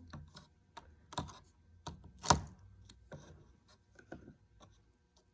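Faint, irregular light clicks and taps of a soldering iron tip working over the soldered copper-foil seams of a stained glass panel, with one sharper knock about halfway through.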